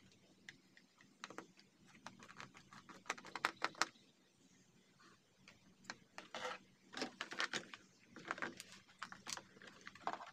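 Irregular clicks, taps and light clatter of small parts and tools being handled on an opened induction cooker, in bursts, loudest about three to four seconds in.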